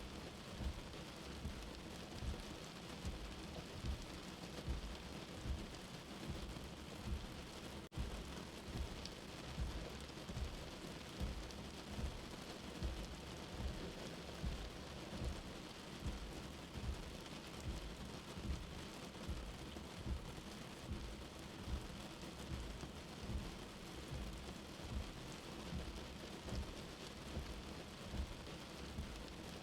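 Steady rain heard from a sheltered space, with a slow heartbeat underneath at about one beat a second. There is a momentary dropout about eight seconds in.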